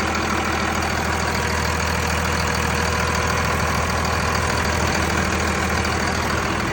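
Second-generation Cummins 5.9-litre inline-six turbodiesel idling steadily, with the usual diesel clatter.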